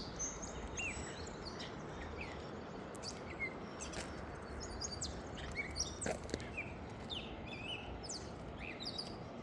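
Several songbirds chirping in the early-morning chorus: many short, high calls and quick pitch glides, scattered throughout, over a steady outdoor hiss.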